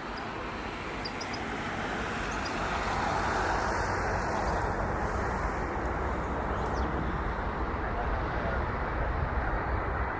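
Jet engine noise from an Airbus A380 on its landing approach: a rushing sound that grows louder over the first few seconds and then holds steady.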